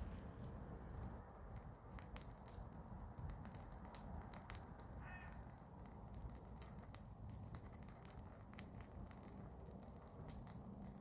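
Garden bonfire of burning garden waste crackling: sharp pops and snaps scattered irregularly over a low rumble.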